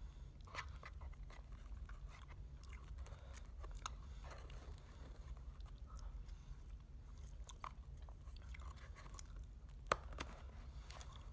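A person chewing and crunching food close to the microphone, with soft scattered clicks and smacks, over a low steady hum. A single sharp click near the end is the loudest sound.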